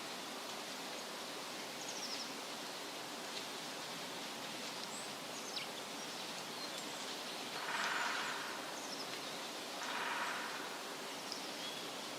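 Steady wind rustling through leafy trees, with a few faint, brief bird chirps scattered through. Two louder gusts of leaf rustle swell and fade about eight and ten seconds in.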